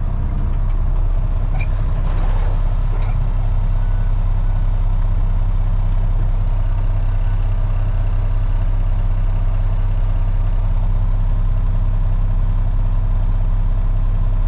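Freightliner FLD truck's diesel engine idling steadily, heard from inside the cab as an even, low drone.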